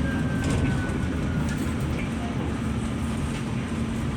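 New York subway train rumbling steadily, heard from inside a car, with a faint high whine that falls slowly in pitch in the first second or so.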